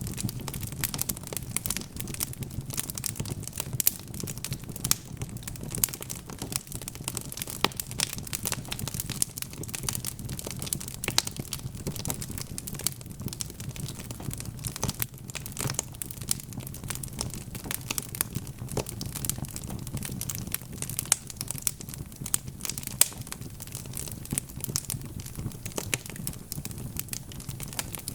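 Wood fire crackling: dense, irregular pops and snaps over a steady low rumble.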